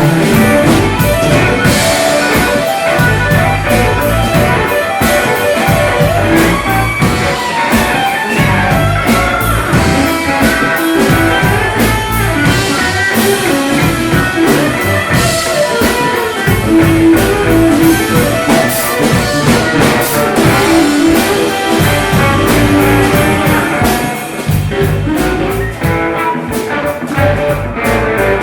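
A rock band playing a blues-rock song, with guitar over a steady drum beat. No words come through in this stretch.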